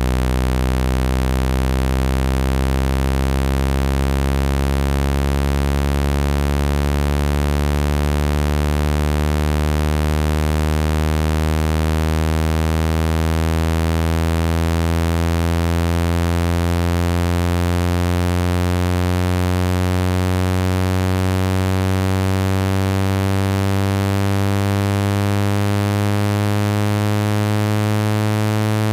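Synthesized low-frequency water-eject tone for clearing a wet phone speaker: one loud, steady, low tone rich in overtones, gliding slowly upward in pitch.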